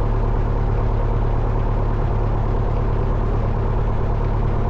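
1972 Cessna 172 Skyhawk's four-cylinder Lycoming O-320 engine idling steadily on the ground, propeller turning, with an even low drone.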